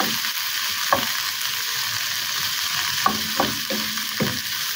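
Kangkong (water spinach) stems sizzling in hot oil in a frying pan, with no water added, the stems giving off their own juice. A wooden spatula stirs them, knocking and scraping against the pan several times over the steady sizzle.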